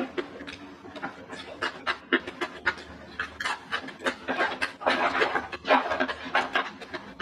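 Close-miked eating sounds: chewing and wet mouth clicks, with crackling as crispy fried salted fish is picked up and crunched, loudest between about four and six seconds in.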